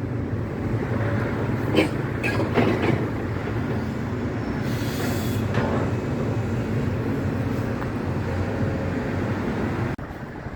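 Demolition excavator's diesel engine running with a steady low rumble, with a few sharp knocks about two seconds in and a short hiss in the middle; the sound drops suddenly near the end.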